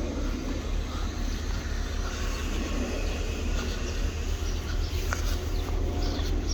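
A train running past with a steady low rumble; faint steady tones come in during the second half.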